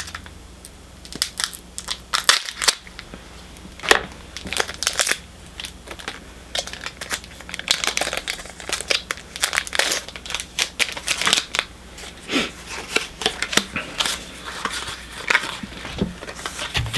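Foil Pokémon booster pack wrapper crinkling and crackling in the hands as it is opened, with cards handled, in irregular bursts of sharp crackles.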